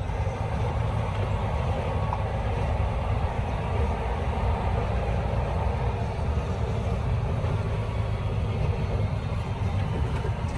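Steady engine and road noise of a truck on the move.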